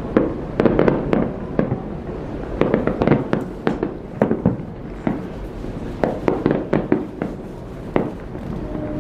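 New Year fireworks bursting: a quick, irregular series of sharp bangs and crackles, several coming close together, over a steady low rumble.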